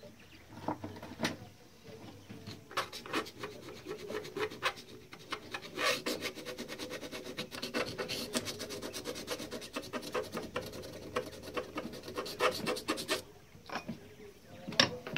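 Rapid back-and-forth scrubbing strokes, many a second, on a part of the typewriter being cleaned, starting about three seconds in and stopping a couple of seconds before the end. A few separate knocks follow, the loudest just before the end.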